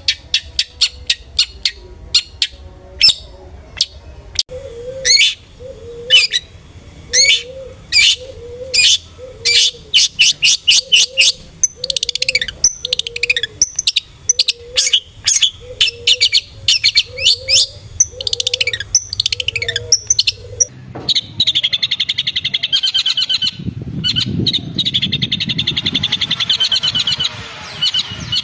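Long-tailed shrike (cendet) calling: a long run of sharp, quick high calls over a low repeated note, turning about two-thirds of the way in into a fast, continuous chattering trill.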